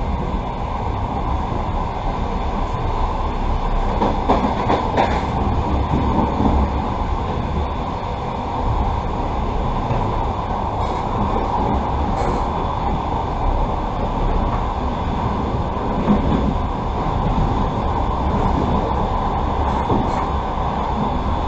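Passenger train heard from inside the carriage, running along the track: a steady rumble of the wheels and running gear on the rails, with a few faint, brief higher-pitched sounds.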